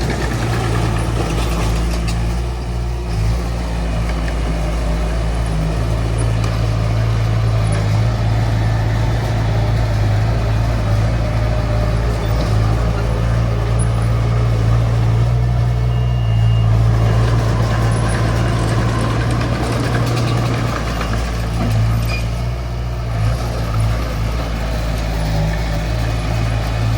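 Diesel engine of a small D20 crawler bulldozer running steadily under work, a constant low drone with a mechanical rattle over it.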